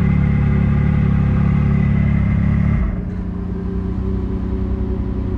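Off-road vehicle engine running steadily under way, then easing off and running quieter about three seconds in.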